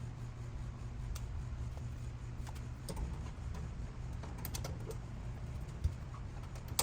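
Scattered light clicks and ticks over a steady low hum as a Char-Griller Gravity 980 charcoal grill is being fired up.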